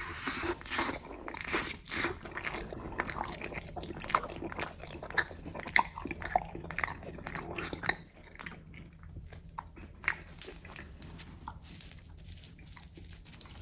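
Close-up biting and chewing of a slice of cheeseburger pizza, with many small crackles and crunches from the crust. The crackling is densest in the first eight seconds and thins out toward the end as the chewing goes on.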